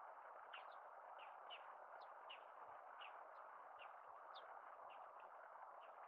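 Faint, repeated short high chirps of a bird, about two a second, over a steady low hiss.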